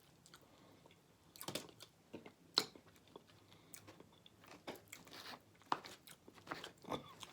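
A person chewing food close to the microphone: faint, scattered wet mouth clicks and smacks, the sharpest about two and a half seconds in.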